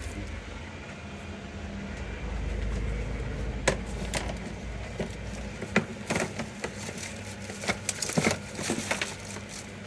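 Scattered clicks and knocks of objects being handled and moved about while someone searches, over a steady low hum and a brief low rumble.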